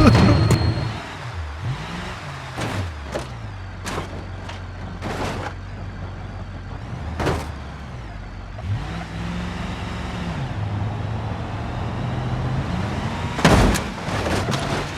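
Cartoon vehicle engine sound effect: a low engine hum whose pitch swings up and back down twice, about a second in and again near the ninth second, with several sharp clanks scattered through it.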